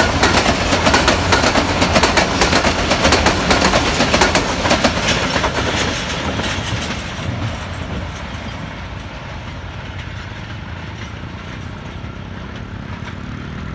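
Passenger train coaches running past on the track, wheels clattering rapidly on the rails over a steady rumble. About six seconds in the sound begins to fade as the train draws away.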